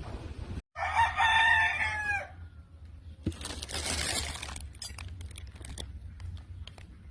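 A rooster crows once, about a second and a half long, dropping slightly in pitch at the end. It is followed by a short burst of hiss and then a scatter of light clicks.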